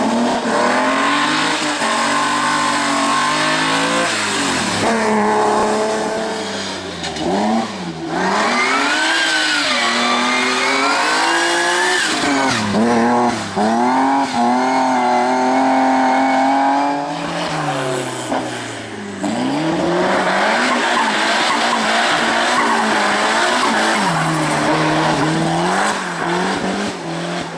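Hill climb race car engines at full throttle, the pitch climbing and falling again and again through gear changes and lifts, with tyre squeal. Toward the end the engine note gives way to a rougher, noisier sound.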